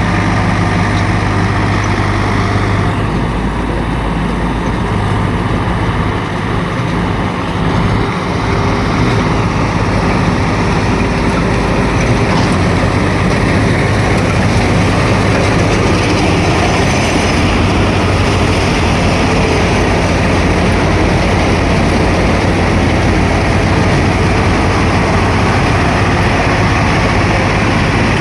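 Swaraj 855 tractor's three-cylinder diesel engine running hard under load, pulling a fully loaded trolley through mud. The engine note dips briefly a few seconds in, then holds steady.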